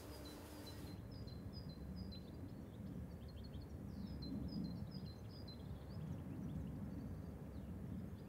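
A small songbird singing: a rapid run of short, high chirps beginning about a second in, over a steady low rumble of background noise.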